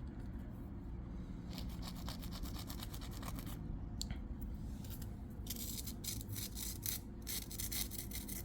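Scratchy rubbing and scraping strokes, sparse at first and much denser over the last three seconds, over a low steady rumble.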